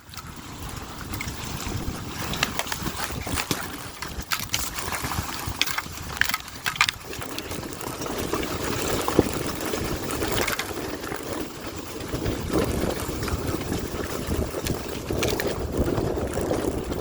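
Dirt bike riding, with engine rumble and wind rushing over the microphone. Sharp knocks and clatter fill the first seven seconds.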